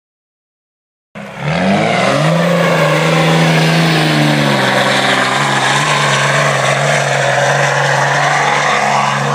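Silence for about a second, then a pickup truck's engine cuts in loud and high-revving, climbing quickly in pitch and then holding steady at high revs.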